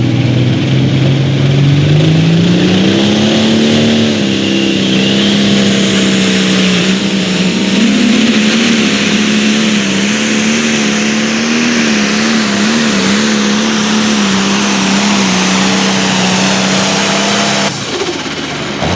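Competition pulling engine running flat out during a pull: its note climbs about two seconds in, holds high and steady with brief wavers, then falls away suddenly near the end as the run ends.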